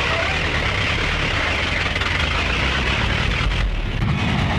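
A vehicle engine running steadily with a low rumble. The sound changes abruptly about three and a half seconds in.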